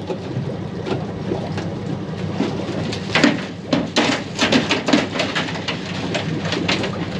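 Crab boat's engine idling with a steady low hum, and from about three seconds in a rapid run of sharp clicks and clattering knocks as blue crabs are shaken out of the wire pot.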